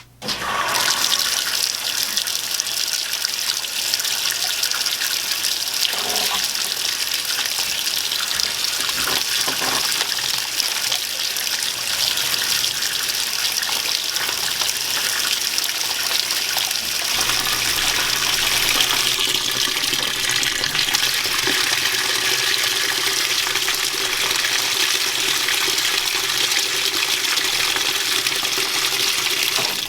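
Admiral (Whirlpool-built) belt-drive top-load washing machine filling for the wash: the water inlet valve opens suddenly at the start and water gushes steadily into the tub.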